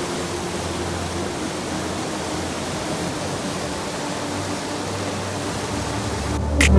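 Steady rushing noise with a low, even hum beneath it, heard aboard a tour boat underway; a sharp click just before the end.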